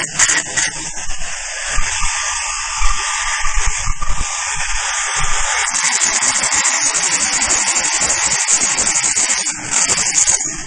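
HB3000+ welding stress relief machine working on a weld, a loud steady hiss that becomes a fast, even buzz about halfway through, dipping briefly near the end.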